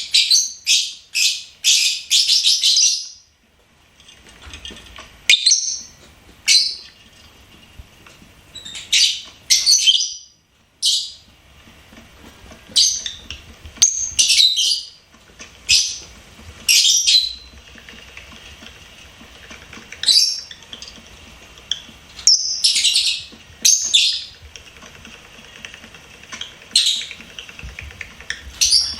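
Lovebird chirping: a rapid run of shrill chirps in the first three seconds, then single chirps and short bursts of them every second or two.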